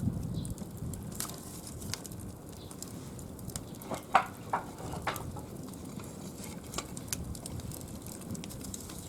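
Wood fire crackling in a brick cooking stove, with scattered small pops and a few sharper cracks about four to five seconds in.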